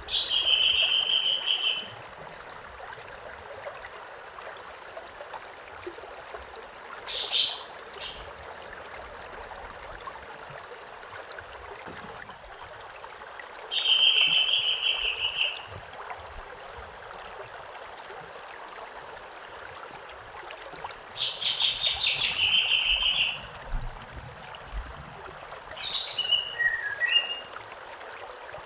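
Stream water running steadily while a bird sings three trills of about two seconds each, with short chirps in between.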